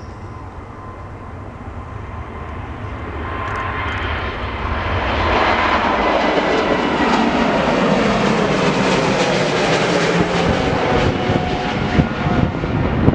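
Jet airliner's engines passing close by, growing steadily louder over the first half and then staying loud, with a hissing whine whose pitch sweeps downward as the plane goes past.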